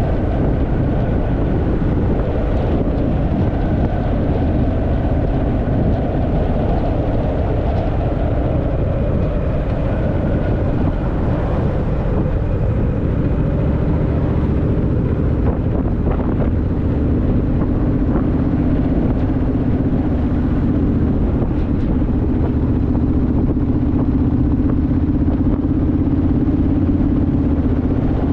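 Honda Rebel motorcycle's parallel-twin engine running steadily at cruising speed, with wind rushing over the microphone.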